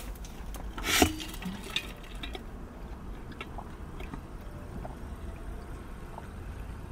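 Someone eating close to the microphone: quiet chewing with small wet mouth clicks, and one short, louder noisy sound about a second in.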